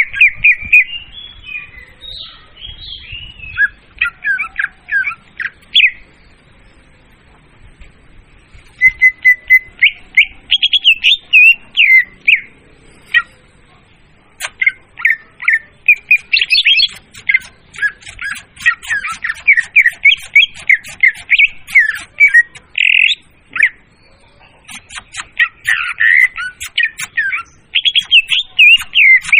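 Leafbird (murai daun) song played as a bird-hunting lure call: loud, fast strings of short chirping and whistled notes, with a few brief pauses between bursts.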